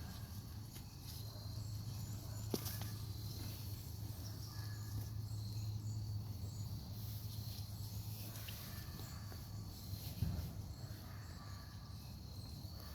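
Digging by hand through soil in a sweet potato grow bag: faint scraping and rustling, with two sharp knocks, one about two and a half seconds in and one near ten seconds, over a steady low hum.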